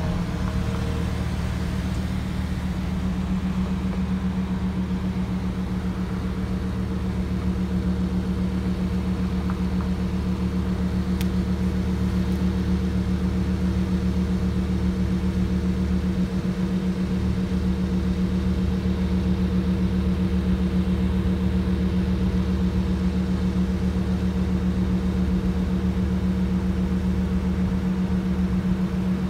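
Lamborghini Huracán EVO's 5.2-litre V10 idling steadily.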